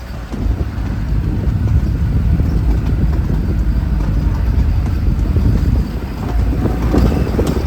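Niva 4x4 driving on a rough off-road track: a steady low rumble of engine and tyres that rises about half a second in and eases briefly near the end.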